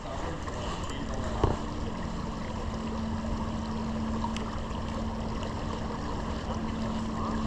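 Steady rush of stream water. About a second and a half in there is a short knock, and a steady low hum joins and runs on.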